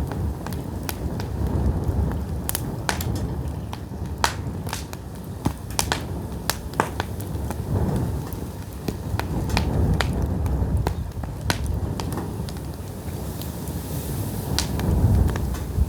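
Pine firewood burning, crackling with sharp, irregular pops over a steady low rumble of the fire.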